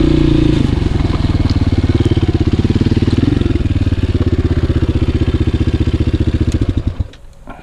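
Enduro motorcycle engine dropping to a steady, evenly pulsing idle as the bike rolls to a stop, then cutting out suddenly about seven seconds in as the engine is switched off.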